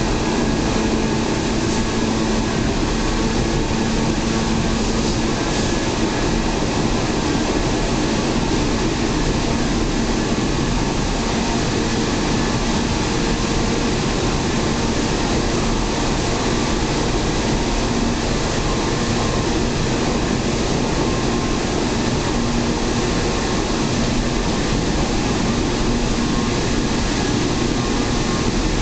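Steady running noise of a local electric train heard from inside the carriage: a continuous rumble of wheels on rail with a faint steady hum, unchanging throughout, as the train runs through a long tunnel.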